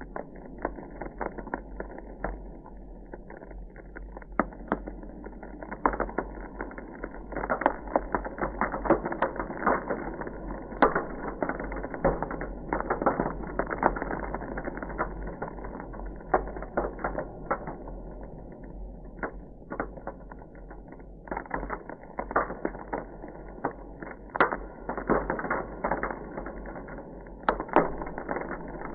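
Ice crackling: a dense run of irregular sharp crackles and pops, thinning out for a couple of seconds about two-thirds of the way through, over a steady low hum.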